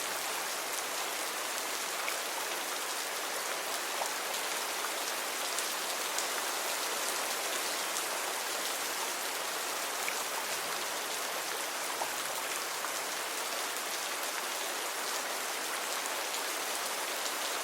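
Steady rain falling, an even hiss scattered with small sharp drop ticks.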